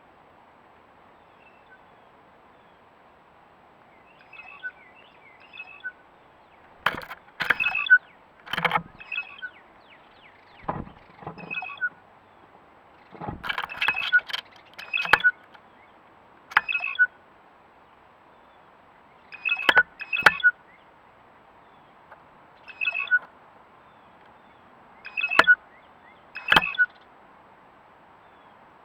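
Birds calling in short, harsh bursts, irregularly every second or two, mixed with a few sharp knocks.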